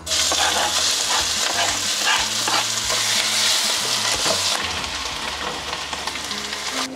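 Crushed ginger and garlic hitting hot olive oil in a frying pan: a loud sizzle that starts abruptly as they go in, while they are stirred with a spatula. The sizzle eases somewhat after about four and a half seconds and stops just before the end.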